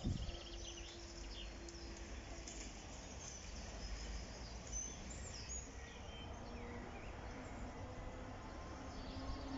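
Small birds chirping in short scattered calls over a steady low outdoor rumble, with one brief thump right at the start.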